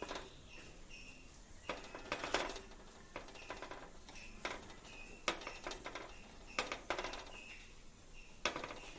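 A utensil stirring a pot of curry, scraping and clinking against the pot in irregular strokes, some with a brief high ring.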